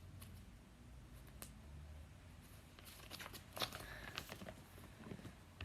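Faint rustling and a few light clicks and taps of handling in a small room, over quiet room tone.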